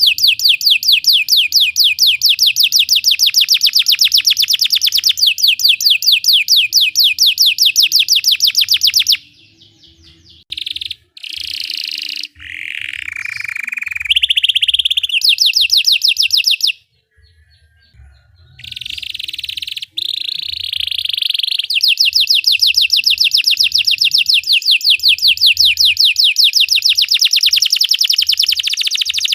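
Belgian canary singing: long trills of rapid repeated high notes. Around a third of the way in the trill breaks off into short, varied phrases and brief pauses, and after about two-thirds of the way it goes into another long trill.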